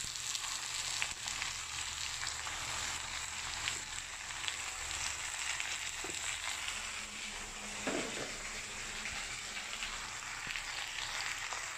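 Raw duck pieces frying in hot oil in a stainless steel wok, a steady sizzle with scattered small crackles.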